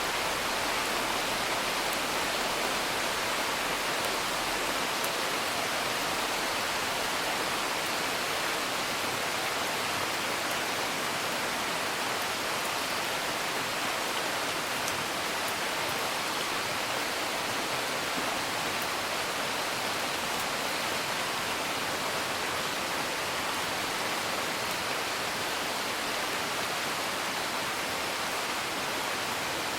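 Steady, even rain heard from indoors, with a few faint crackling ticks from a fire.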